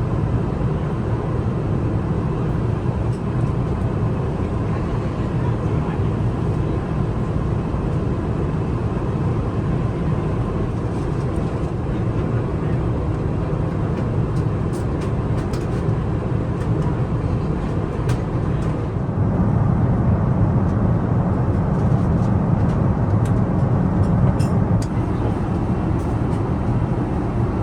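Steady rumble of an Airbus A380 airliner heard from inside the cabin, engine and airflow noise, growing a little louder about two-thirds of the way through, with a few faint clicks.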